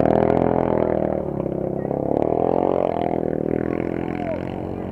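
Racing quad bike engines revving up and down, their pitch rising and falling every second or so.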